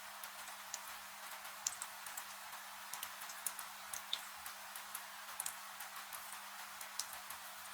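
Wood fire crackling with irregular sharp pops and snaps over a steady hiss of falling rain, with a faint low hum underneath.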